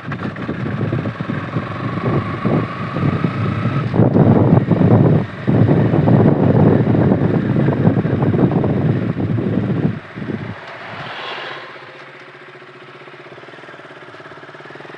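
KTM RC 200's single-cylinder engine on a ride, with heavy rushing noise over the microphone for about ten seconds. The noise then drops away to a quieter, steady engine running near idle.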